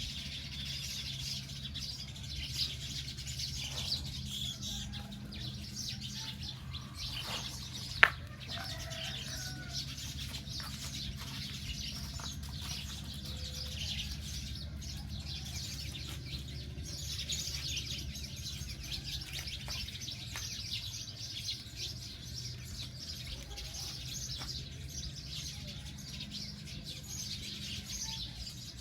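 Many small birds chirping and twittering at once in a dense, continuous chorus, over a steady low hum. A single sharp click about eight seconds in.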